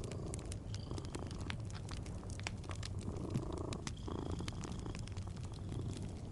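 A cat purring with a steady, low rumble, over wood-fire crackle: many small, sharp pops scattered throughout.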